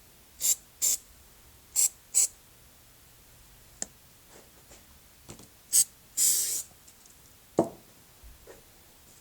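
Sandpaper rubbed by hand over carved wood pieces: several short scratchy strokes, mostly in pairs, with one longer stroke after the middle, and a single knock as a piece is set down.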